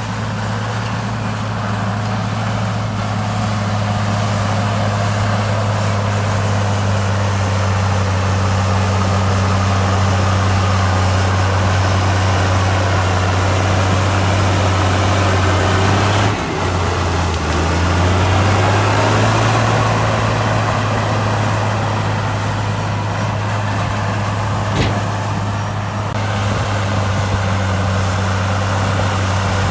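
Heavy diesel engine of earthmoving equipment running steadily, with a brief drop and shift in pitch about halfway through and a sharp click near the end.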